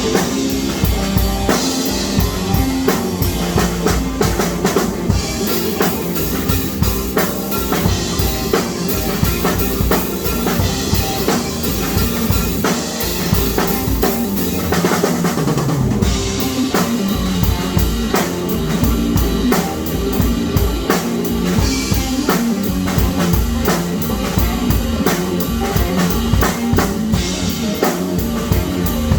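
Drum kit played at a quick, steady beat, with bass drum, snare and rimshots, under pitched rock music.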